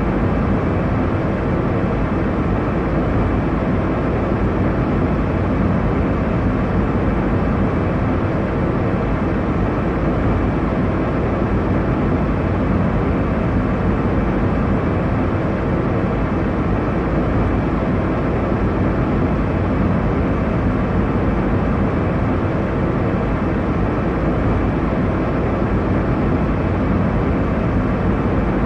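Steady airliner cabin noise in flight: a constant low roar of engines and airflow, unchanging throughout.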